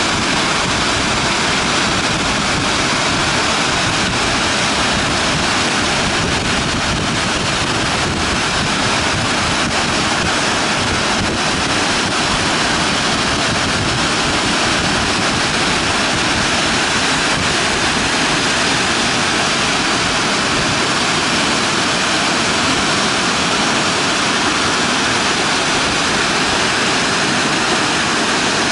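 Fukiware Falls on the Katashina River, a steady rushing roar of water pouring into its gorge, unchanging throughout.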